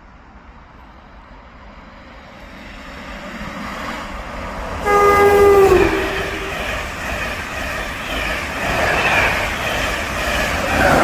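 A train approaching at speed sounds its horn once, a single note of about a second that drops in pitch as it goes by, then runs past with a loud rushing rumble.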